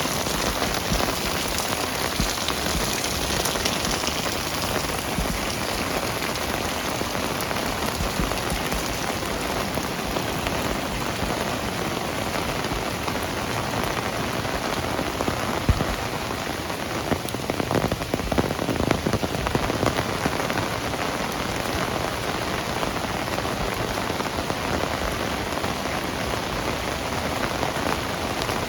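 Heavy rain falling steadily, an even hiss of drops on surfaces, with a short run of sharper, louder taps a little past halfway.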